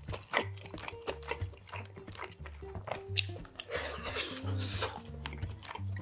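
Close-up eating sounds: a man chewing soft boiled chicken, with wet mouth clicks and lip smacks. Background music with a steady bass line plays underneath.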